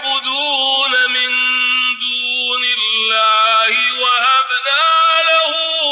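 A man reciting the Quran in the melodic tajweed style, holding long ornamented notes that glide up and down, with brief breaks between phrases.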